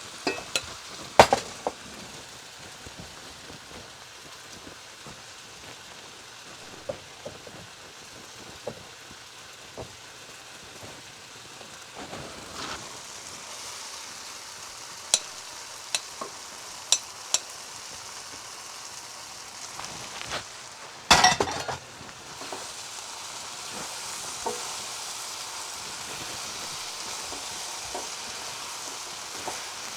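Hakka noodles and chicken sizzling in a pan on high heat as they are stir-fried, a steady hiss with the utensil clicking against the pan now and then. A louder clatter comes about 21 seconds in, and the sizzle grows a little louder near the end.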